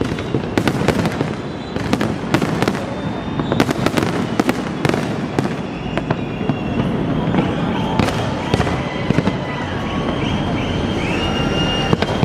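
Fireworks display going off: a rapid, irregular stream of sharp bangs and crackling pops over a dense continuous din, with high whistling tones joining in over the second half.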